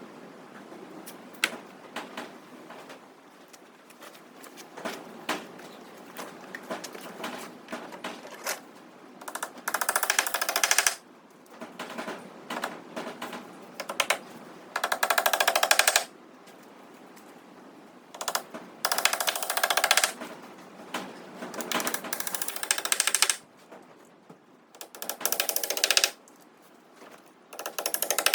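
A power tool rattling in short bursts of about a second each, repeated half a dozen times, with scattered knocks and clicks between the bursts.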